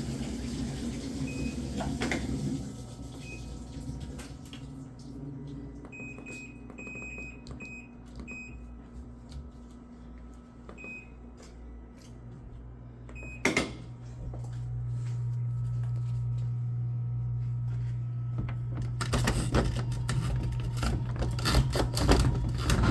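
Top-load washing machine: its control panel gives a run of short, high electronic beeps. About halfway through a click sounds and a steady low motor hum starts, with water sloshing near the end.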